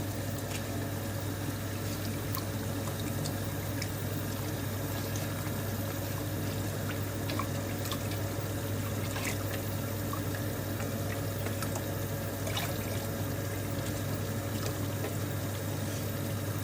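Pan of salted water bubbling steadily at the boil on a gas hob, with a few faint clicks.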